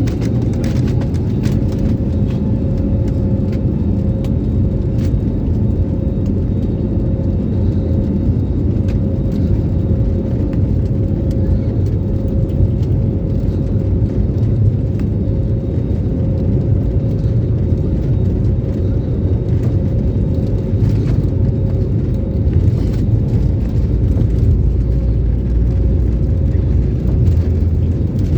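Aeroplane engines running during takeoff: a loud, steady low rumble with a steady whine above it.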